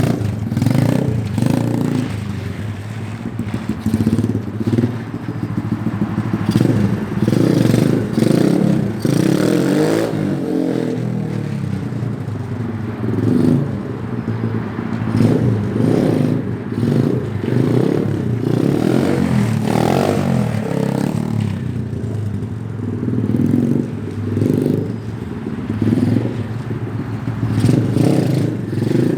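SSR 125 pit bike's small single-cylinder four-stroke engine being ridden hard, revving up and falling back again and again as the throttle is opened and dropped during a wheelie run.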